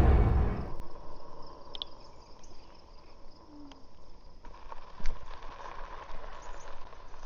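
Wind rumble on the microphone from riding fades out within the first second, leaving quiet outdoor ambience: a faint steady insect buzz, a few short bird chirps, and a single knock about five seconds in.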